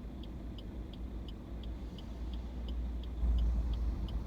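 Car cabin on the move: steady low engine and road rumble, growing louder just after three seconds in, with a turn-signal indicator ticking evenly about three times a second.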